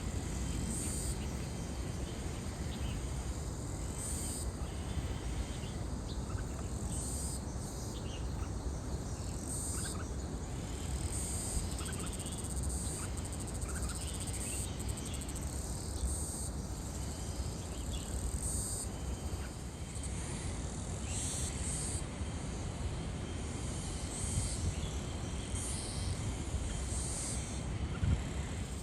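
Outdoor ambient noise: a steady low rumble with faint high-pitched chirps recurring every second or two.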